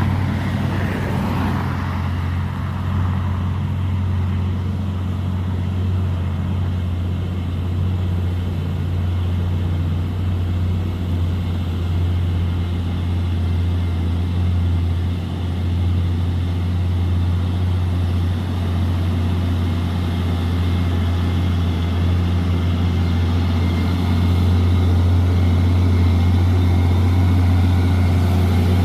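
Heavy truck engine running steadily with a deep, even hum, getting a little louder about three-quarters of the way through.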